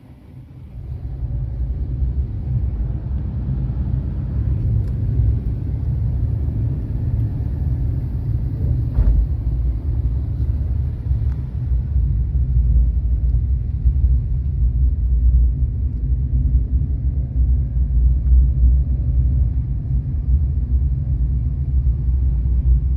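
Steady low rumble of a vehicle in motion, coming up about a second in.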